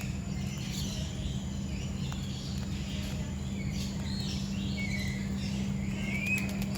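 Many birds chirping and calling at once, with short whistled notes that slide up and down near the end, over a steady low hum.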